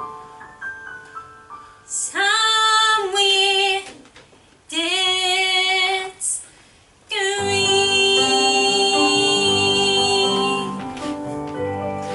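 A woman singing a musical-theatre ballad in long held phrases. About seven seconds in, fuller backing music comes in under a long sustained note.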